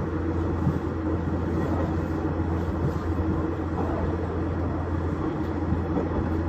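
KiHa 110 series diesel railcar running along the line, heard from inside the car: a steady low engine drone with a constant hum above it and wheel-on-rail running noise.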